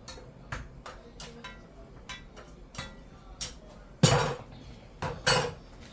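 Kitchen clatter: a run of light clinks and taps of utensils against pots and dishes, then two louder knocks about four and five seconds in.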